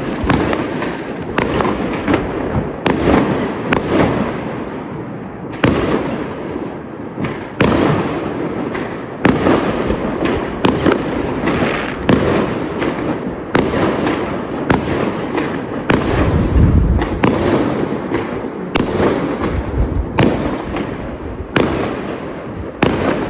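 Fireworks going off: a steady string of sharp bangs, roughly one a second, each fading away, over a continuous crackling din.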